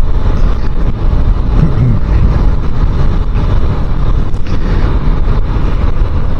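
Motorcycle on the move: engine running under a steady rumble of wind buffeting the microphone.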